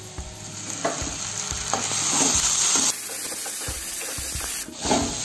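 Sliced onions and ginger-garlic paste sizzling in hot oil in a non-stick pan, stirred with a spatula that scrapes and taps against the pan over and over.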